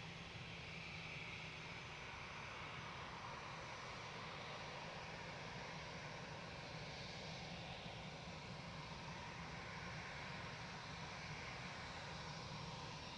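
Faint, steady noise of airliner engines at the airport, an even rumble and hiss that does not change much.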